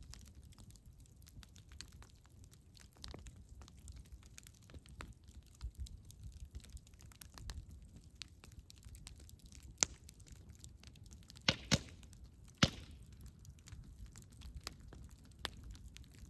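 Campfire burning: wood crackling with many small scattered pops over a low steady rumble. A few louder, sharp snaps come in the second half.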